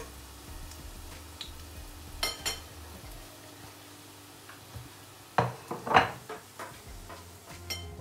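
Cornmeal festival dumplings frying in oil in a stainless steel pot, a faint steady sizzle. A metal fork knocks and scrapes against the pot, briefly about two seconds in and louder in a cluster around five to six seconds in.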